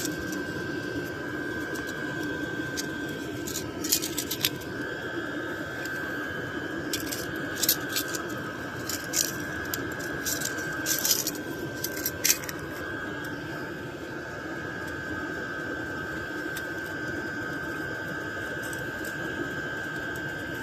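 Light metallic clicks and jingles of a set of welding tip cleaners being handled while picking a smaller wire to run through a carburetor jet, clustered in the first half and stopping about twelve seconds in. Under them runs a steady background hum with a thin, high whine.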